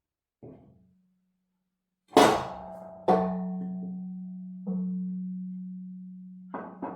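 A hammer striking a steel part at uneven intervals: a light tap, then five harder blows. Each blow leaves a long, slowly fading metallic ring at the same pitch.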